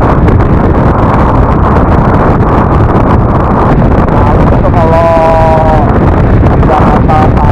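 Wind rushing over the helmet microphone and a Yamaha NMAX scooter running at road speed, steady and loud. A brief wavering pitched sound lasts about a second, about five seconds in.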